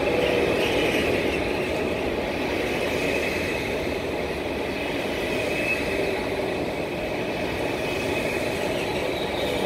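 KTX-Sancheon high-speed electric train rolling past along the platform: a steady running noise of wheels on rails, with a faint steady high tone.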